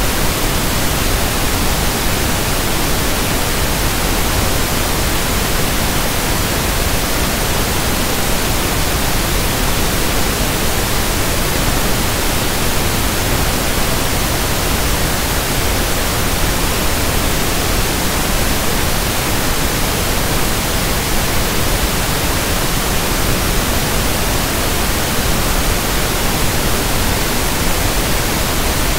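Synthetic pink noise (1/f noise): a steady, even hiss with no change in level.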